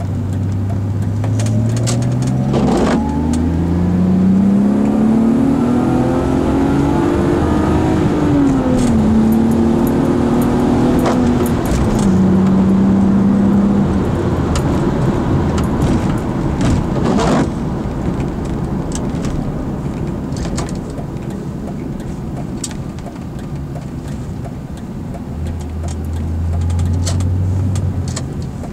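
BMW M50B25 2.5-litre straight-six heard from inside the car's cabin, accelerating with its note rising, dropping once at a gear change, then rising and holding steady. The driver then lifts off, leaving road noise, and the engine note comes back up near the end. Two sharp knocks are heard, one early and one about midway.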